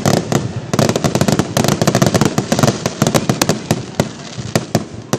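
A fireworks display in rapid barrage: aerial shells bursting several times a second in a dense volley of sharp bangs over a continuous rumble, thickest about a second to three seconds in.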